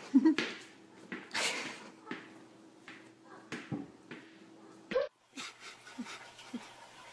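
A small pet's short, pitched cries mixed with scattered sharp knocks and scuffs on a hard floor. The loudest cries come right at the start, and a few fainter short ones follow later.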